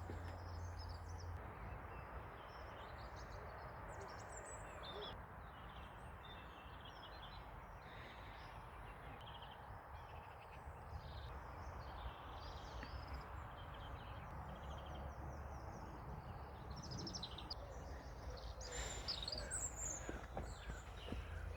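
Outdoor ambience: several small birds chirping and singing on and off over steady background noise, with a louder burst of calls near the end.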